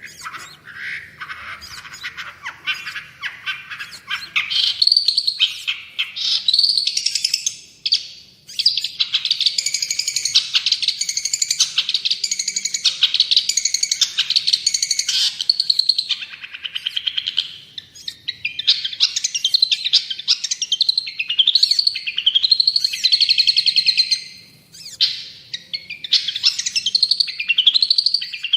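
Long-tailed shrike (cendet) singing a fast, varied chattering song of rapid trills and repeated notes, broken by a few short pauses.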